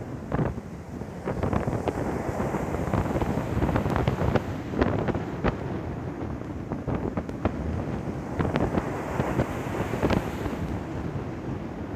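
Sea wind buffeting the microphone over breaking surf, with many short sharp pops and gusts.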